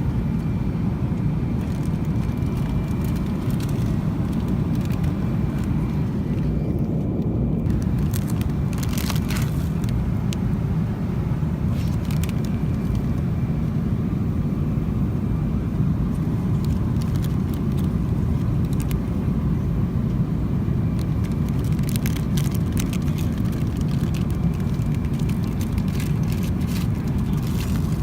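Steady, low roar inside the cabin of a Boeing 777-200 in flight, from its engines and the airflow, with a few faint clicks and rattles.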